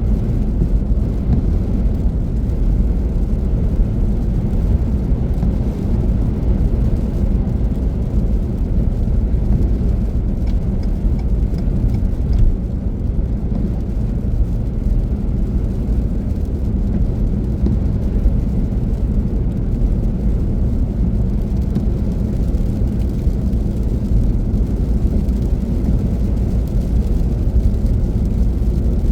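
Steady low rumble of a car driving at speed: tyre and engine noise with no sudden changes.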